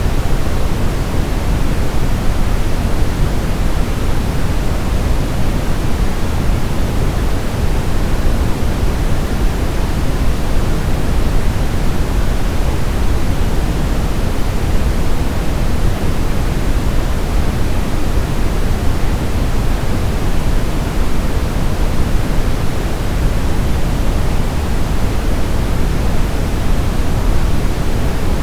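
Continuous, unchanging white noise for sleep, a steady hiss heavier in the low end than in the highs.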